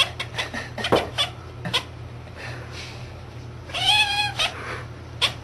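A cat calling in a quick run of short chirps, then one longer, wavering meow about four seconds in, with more short chirps at the end.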